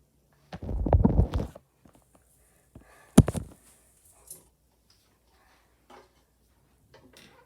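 A rumbling scrape lasting about a second, then a single sharp knock about three seconds in, followed by a few faint ticks.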